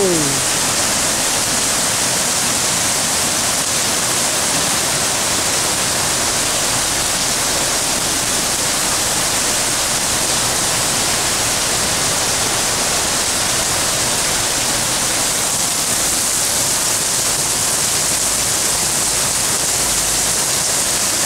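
Torrential rain on a flooded street: a constant, even hiss with no let-up.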